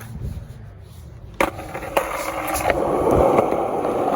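Skateboard on pavement: two sharp clacks about a second and a half in, then its wheels rolling, growing louder.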